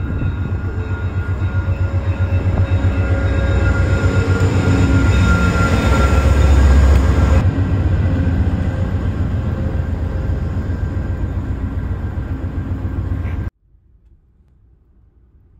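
VIA Rail passenger train, led by a diesel locomotive, pulling into the station and passing close by: a loud rumble of engine and wheels that builds to its loudest about halfway through. It cuts off abruptly near the end, leaving only a faint low hum.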